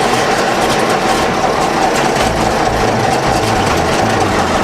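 Case 930 tractor's diesel engine running steadily at idle, a loud, even drone with a low rumble.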